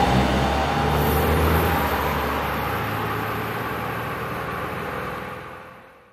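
Car engines and exhausts running as two cars drive away, the sound slowly dropping and then fading out to nothing over the last second.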